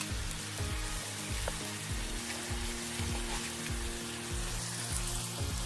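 Vegetables sizzling steadily as they fry in butter in an aluminium camp cooking pot over a wood fire.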